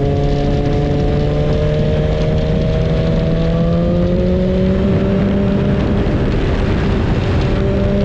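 BMW S1000RR's inline-four engine running at part throttle, its pitch climbing slowly and steadily, over a dense rush of wind and road noise.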